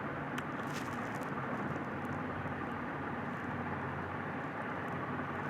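Steady background hiss and hum, with a few faint light metallic scrapes about half a second to a second in as a screwdriver pries at the plate holding the table fan motor's front bush.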